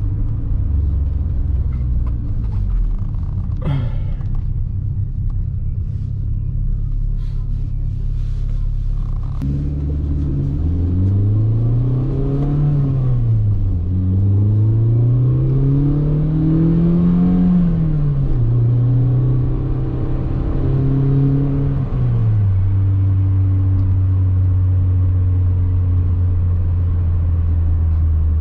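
A 1988 BMW M3's S14 four-cylinder engine, heard from inside the cabin while driving. It holds a steady note, then climbs in pitch twice under acceleration with drops in between, and settles to a steady cruise for the last several seconds. There is a brief click about four seconds in.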